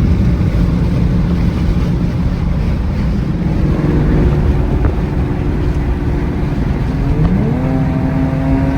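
Loud V8 muscle-car engine and exhaust rumbling at low revs, then revving up about seven seconds in and holding the higher pitch.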